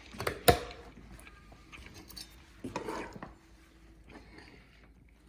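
Tableware handled at a table while eating: one sharp clink about half a second in, then softer scattered knocks and handling sounds.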